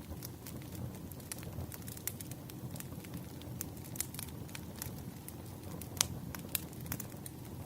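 Wood fire crackling, with irregular sharp pops of burning firewood over a steady low rumble of flames; the loudest pop comes about six seconds in.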